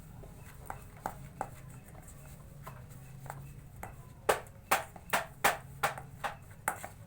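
Utensil knocking against a bowl while mixing a stiff fishing-bait dough: scattered light knocks, then about seven louder knocks at roughly two a second in the second half.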